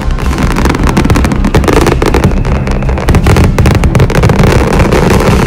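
Fireworks barrage: many shells bursting in quick succession, a dense, loud run of overlapping bangs and crackles.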